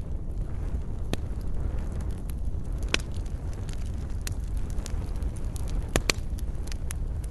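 Campfire burning wood, with a steady low rumble and irregular sharp crackles and pops, the loudest about three seconds in and a quick pair near six seconds.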